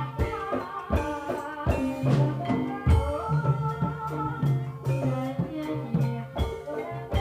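Javanese gamelan music of the kind played for an ebeg (kuda lumping) trance dance, with drum strokes over ringing, held pitched notes.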